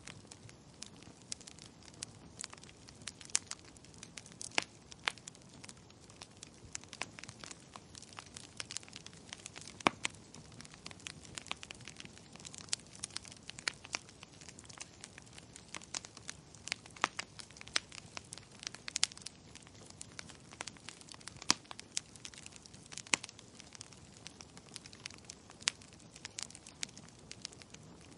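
Wood fire crackling in a fireplace: irregular sharp pops and snaps, several a second, some louder than others, over a soft steady hiss.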